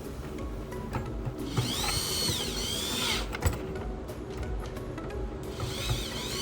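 Small electric screwdriver running in two bursts, its motor whine rising, holding and falling as it drives screws. There is a sharp click between the bursts.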